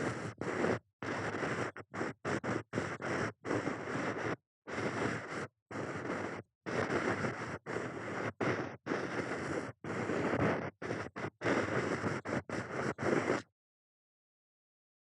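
Ear pick scraping and rubbing close against a microphone ear, in about twenty stretches of scratchy rustling, each cut off by a short gap of dead silence. The sound stops altogether about 13 s in.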